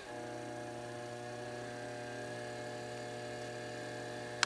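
Foredom bench lathe's electric motor switched on and running unloaded with a steady hum. A short click comes near the end.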